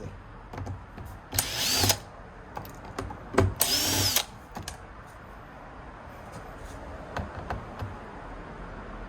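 Small electric screwdriver running in two short bursts of motor whine, about a second in and again near the middle, undoing screws inside an iMac, with faint clicks of handling in between.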